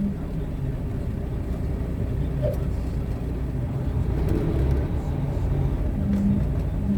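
Steady low rumble of a car heard from inside the cabin while it moves slowly in traffic.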